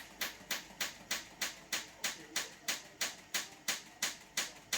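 Washing machine running with a regular sharp clicking, about four clicks a second, in time with the turning drum. It is the noise the uploader traces to the chassis flexing and cracking at the shock absorber mounts.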